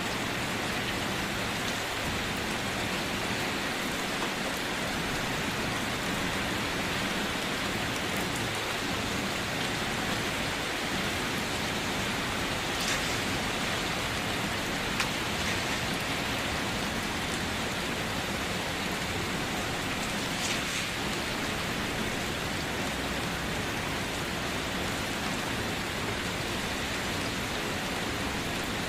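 Steady rain falling, an even hiss with a few slightly louder drops standing out now and then.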